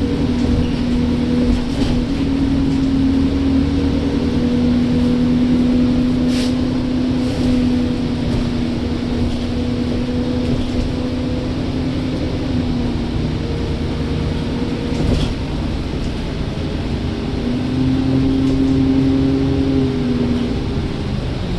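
Enviro bus engine running steadily with a droning hum. The pitch rises briefly and settles near the end, with a couple of faint clicks along the way.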